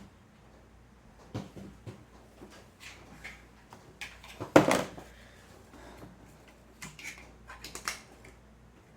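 Scattered clicks and knocks of hands handling a tabletop wiring demonstration board with lamp sockets. The loudest knock comes about halfway through.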